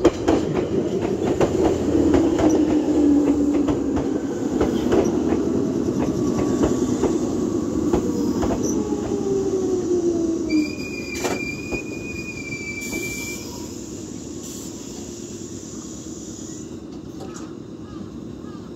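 Red Meitetsu 6000-series electric train pulling into the station: wheels click over the rail joints while a falling whine follows it slowing down. A high, steady brake squeal sounds for about three seconds as it comes to a stop, about eleven seconds in. After that the standing train gives off a quieter steady hum.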